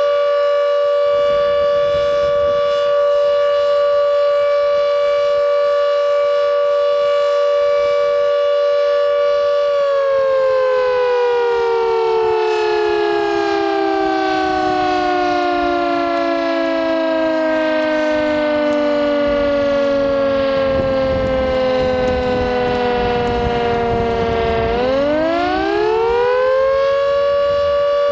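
Carter 1H electric siren sounding the continuous flood-warning tone, a steady two-note chord. About ten seconds in it winds slowly down in pitch for some fifteen seconds, one of the four interruptions of the signal, then quickly winds back up to full pitch near the end. The signal warns of danger of flooding.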